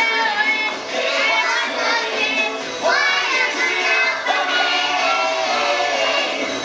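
A song playing, with children singing over backing music.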